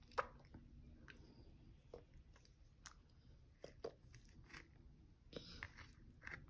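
A toddler chewing a mouthful of soft noodles, faint wet smacking mouth sounds broken by scattered small clicks, the sharpest just after the start.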